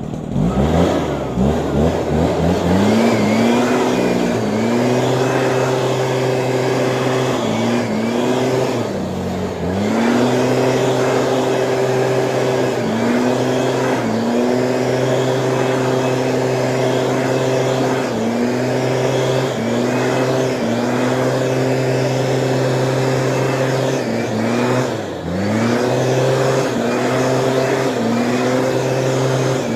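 Small Stihl engine on a weed sprayer running at a steady high speed. Its revs dip and pick back up about a second in, again around a third of the way through, and again near the end.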